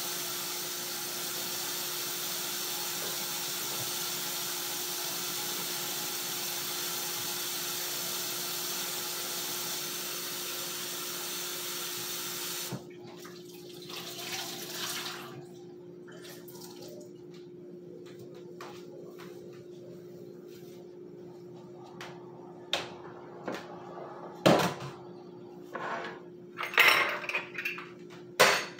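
Kitchen tap running into a stainless steel sink as the soap is rinsed off it, shut off suddenly about halfway through. Scattered knocks and clatter at the sink follow near the end, over a steady hum.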